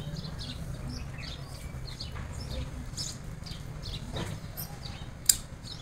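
Small birds chirping on and off over a steady low hum, with one sharp click about five seconds in.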